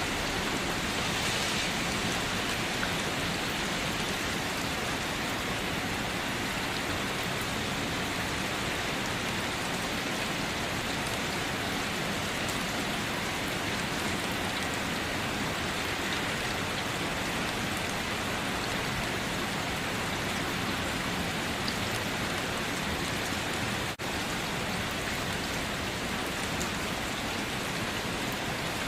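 Steady, even sound of rain falling, with a momentary dip in level near the end.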